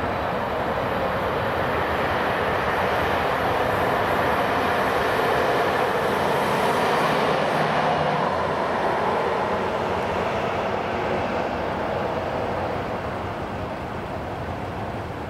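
A train passing, a steady rushing rumble that builds to its loudest about seven seconds in and then fades away.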